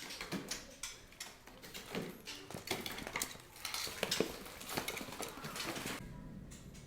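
Hill mynas in their cages and crates making an irregular clatter of clicks, knocks and scraping. It settles to a quieter, steadier background about six seconds in.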